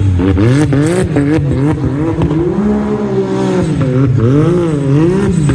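Car engine revving up and down several times in quick succession, with crackling exhaust pops.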